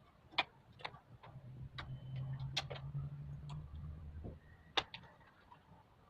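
Scattered light clicks and taps of parts being handled and fitted during assembly of a split air conditioner's indoor unit, with a low hum for a few seconds in the middle.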